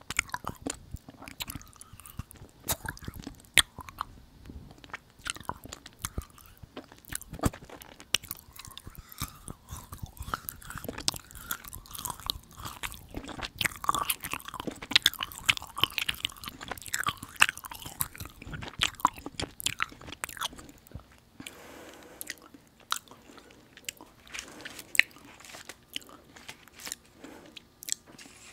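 Close-miked chewing of a chewy, sticky dried jujube dessert: irregular wet mouth clicks and soft bites. The chewing is busiest in the middle and thins to scattered clicks over the last several seconds.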